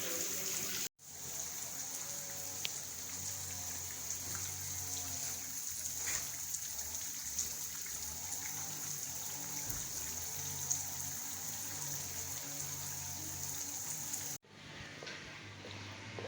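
Water running steadily with an even hiss, broken by two abrupt cuts, about a second in and near the end.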